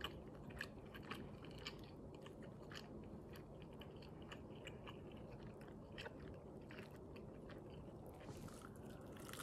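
A person chewing a mouthful of fried chicken, faint, with many small clicks scattered throughout.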